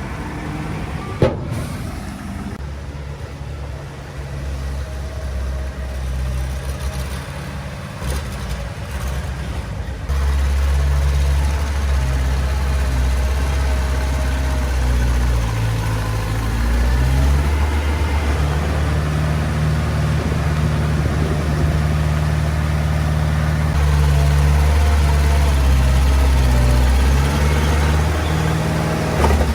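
Heavy diesel engine running with a deep drone. It gets louder abruptly about ten seconds in and again near the end. A single sharp click comes about a second in.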